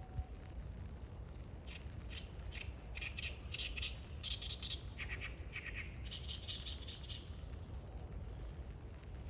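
A small songbird chirping: a quick run of short, high notes that starts about a second and a half in and stops around seven seconds, over a steady low rumble.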